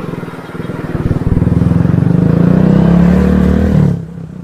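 Motorcycle engine heard while riding, pulling harder and rising in pitch for a couple of seconds, then dropping back suddenly near the end as the throttle eases off.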